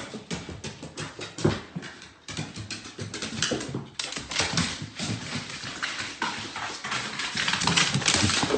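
A dog scrabbling about, its claws clicking rapidly and irregularly on a hard surface.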